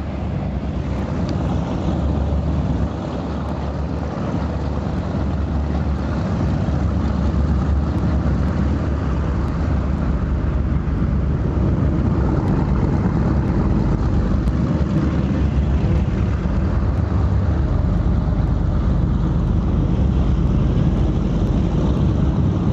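Powerboat running on open water: a steady engine drone mixed with hull and water rush and wind on the microphone, growing somewhat louder over the first dozen seconds and then holding steady.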